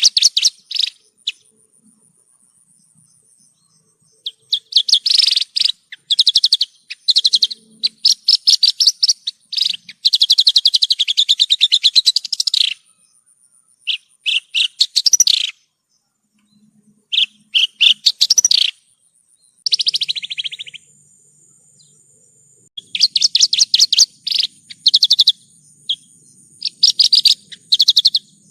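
Javan bush lark (branjangan) singing: phrases of rapid, trilling high notes, each one to three seconds long, broken by short pauses.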